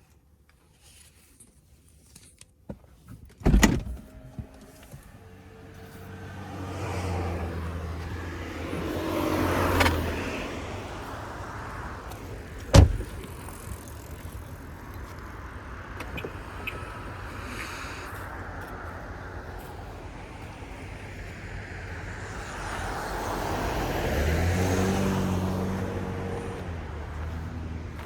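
Cars passing by, each running up and fading away, one around the first third and another late on. There are two sharp thumps, the first a few seconds in and the second near the middle.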